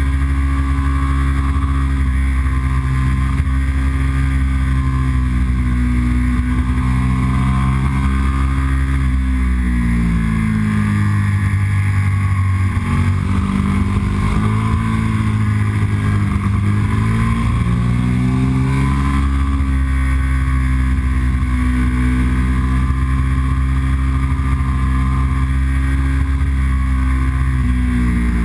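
Yamaha R1 sport bike's inline-four engine pulling at steady revs. Its pitch drops about nine seconds in as the bike slows, then climbs again over the next several seconds as it accelerates back up.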